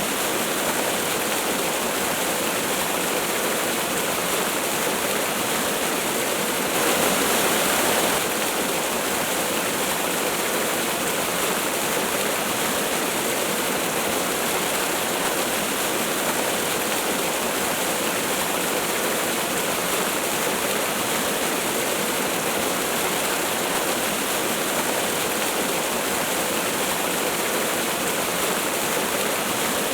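Waterfall rushing steadily, an even hiss of falling water, briefly a little louder about seven seconds in.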